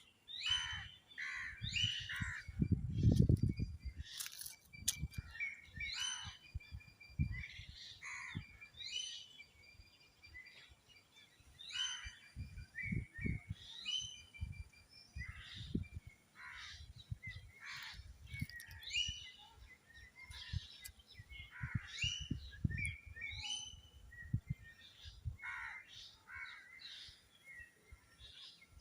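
Many small birds chirping in quick, repeated short calls throughout, with occasional low thumps, the loudest about three seconds in.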